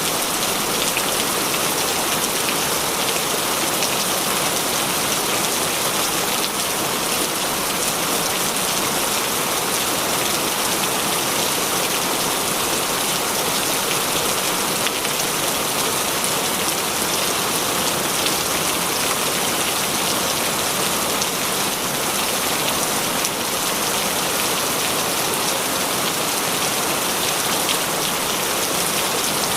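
Steady heavy rain falling, a dense even hiss of drops pattering on surfaces.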